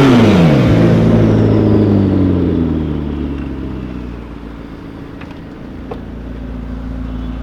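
Supercar engine, loud at first, its revs falling steeply over about a second, then running on at a lower, steadier note that fades over the next few seconds.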